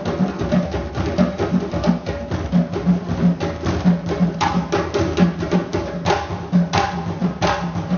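African drumming on hand drums: an even rhythm of deep strokes, about three a second, with sharp slaps cutting through from about halfway in.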